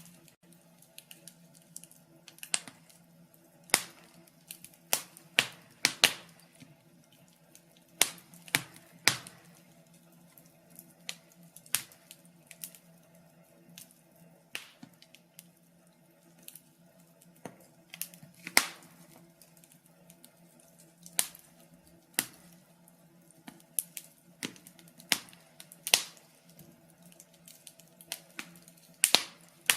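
Wood fire crackling in a fireplace: irregular sharp pops and snaps, sometimes two or three in quick succession, over a faint steady low hum.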